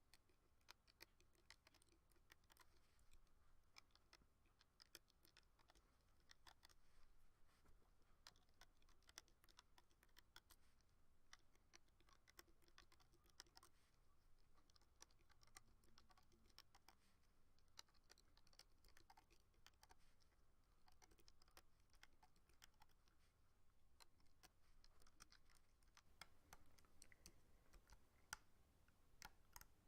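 Faint, irregular light clicks and ticks of a hook looping rubber bands on a plastic Rainbow Loom, several a second with short pauses.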